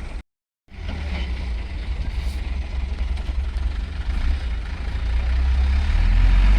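Heavy coal truck engine running with a low, steady rumble that grows louder toward the end. The sound cuts out completely for a moment about a quarter of a second in.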